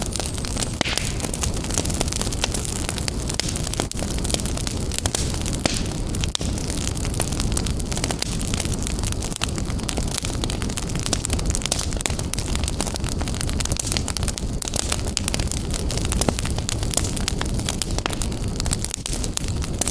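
Wood fire crackling in a fireplace: a steady low rumble of flames with dense, irregular pops and snaps throughout.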